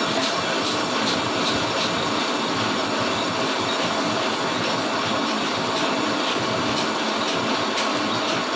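Lathe turning a Suzuki APV brake disc: a steady machining noise with faint, irregular ticks.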